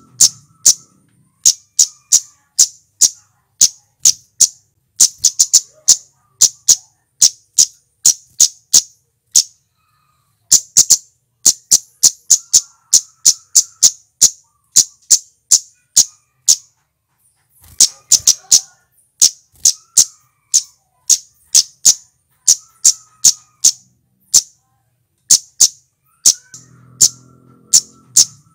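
Male cit keres (cabe-cabean flowerpecker) call recording: short, sharp, high-pitched chips repeated in a fast run of about two to three a second, pausing briefly twice.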